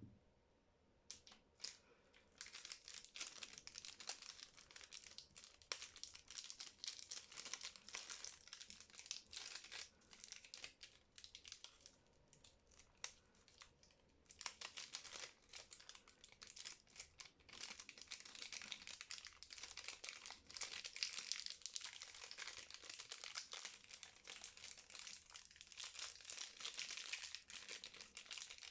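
Soap wrapper being unwrapped by hand: dense crinkling with many sharp little ticks, starting about two seconds in, with a short pause about halfway through.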